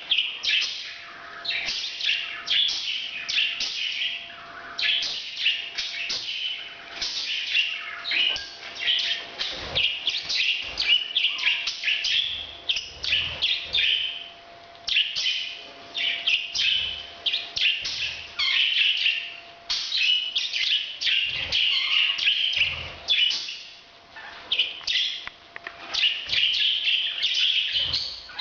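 Pet parrots chirping and twittering in rapid, overlapping high calls with only brief lulls: their breeding-season calling.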